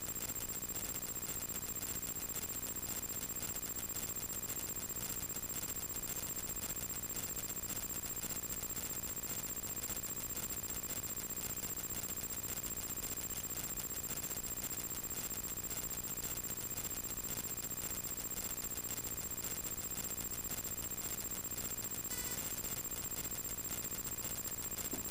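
Steady hiss with a constant high-pitched whine and a faint low hum: light-aircraft cockpit audio with no radio traffic.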